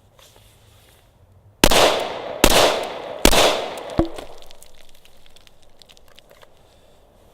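Three shots from a Glock 21 Gen 4 pistol firing .45 ACP, a little under a second apart, each trailing off, followed by a short, quieter click.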